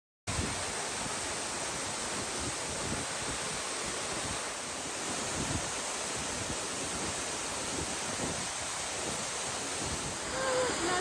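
Waterfall: a steady rush of falling water, starting abruptly just after the start.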